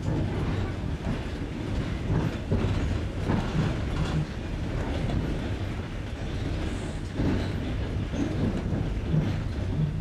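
Train wheels clicking over rail joints on jointed track: a clickety-clack of sharp knocks at uneven spacing over the steady rumble of the moving carriage, heard from aboard the train.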